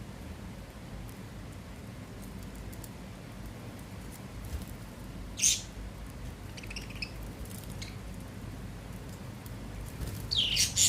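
Budgerigars chirping over a steady low hum: one sharp chirp about halfway through, a few softer chirps a second or so later, and a louder run of falling calls near the end.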